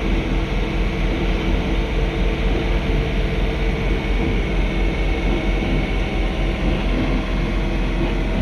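John Deere 3046R tractor's 46-horsepower engine and snowblower running steadily under load in heavy snow, a constant drone with several steady tones and no change.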